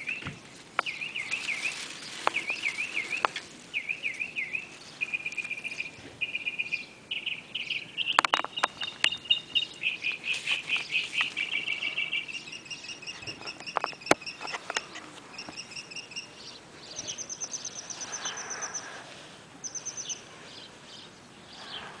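Songbirds singing: repeated short trilled chirp phrases, then higher, faster twittering phrases in the second half. A few sharp clicks about eight and fourteen seconds in.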